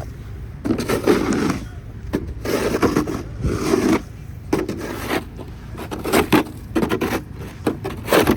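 Snow and ice being scraped in about ten short, rough strokes, roughly one a second.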